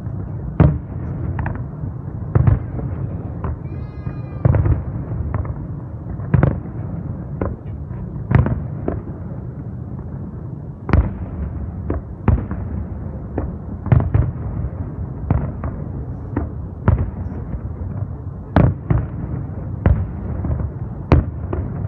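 Aerial fireworks display: shells bursting with sharp bangs about once a second, at uneven intervals, over a continuous low rumble of further distant bursts.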